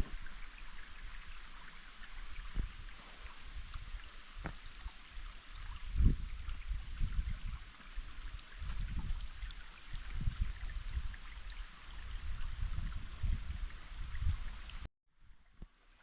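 Steady rush of flowing water from the creek and waterfall, with irregular low rumbles and thuds underneath, the loudest about six seconds in. The sound cuts off abruptly about a second before the end.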